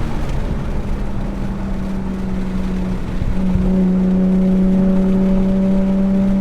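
Nissan 370Z Nismo's 3.7-litre V6 running under load on track, a steady engine note that breaks off briefly a little past three seconds and then comes back louder.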